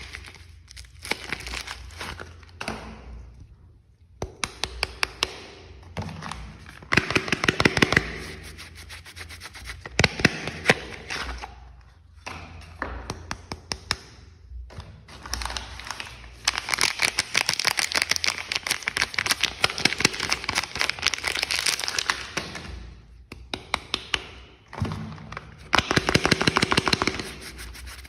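Soap packaging being unwrapped by hand: a wrapper crinkling and crackling in dense runs of quick sharp clicks, with rubbing and scraping, in bursts that start and stop several times.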